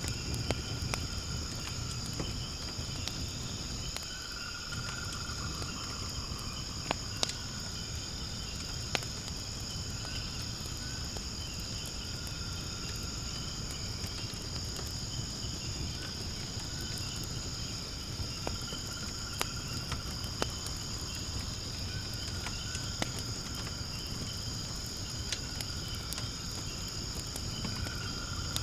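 Firewood burning in a fire pit, crackling with scattered sharp pops, the loudest about 7 and 9 seconds in. Behind it runs a steady high chorus of insects, with a lower trill that comes and goes.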